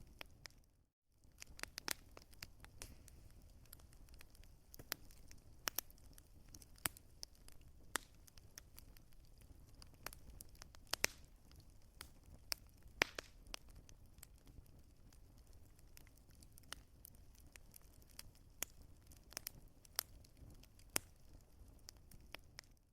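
Wood fire crackling, with irregular sharp pops and snaps over a soft low rumble. The sound cuts out briefly about a second in.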